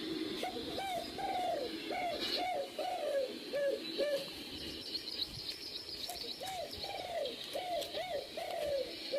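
Bird calling: quick runs of short, arched, low hooting notes, pausing for about two seconds midway, with fainter high chirps above.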